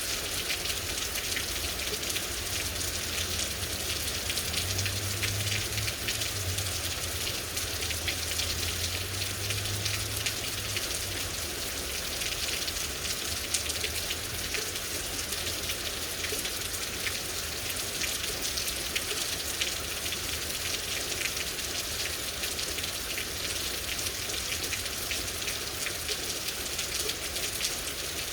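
Steady rain, a dense hiss dotted with countless individual drop ticks. A low rumble sits underneath and is strongest from about five to eleven seconds in.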